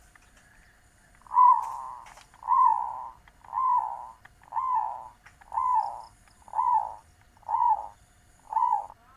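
Zebra dove (perkutut) cooing: a series of eight short, rounded coos about a second apart, beginning about a second in.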